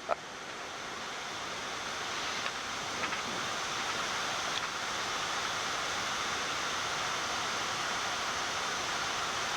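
Steady rushing air noise on the Boeing 787 flight deck during descent, rising slightly over the first few seconds and then holding even.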